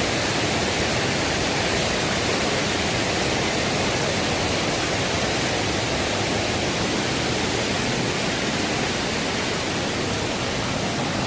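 Waterfall rushing: a steady, loud roar of falling water, unchanging throughout.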